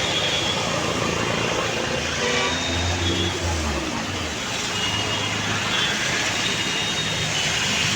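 Steady rain hiss mixed with city street traffic. A vehicle engine swells and passes about three seconds in, and short horn toots sound now and then.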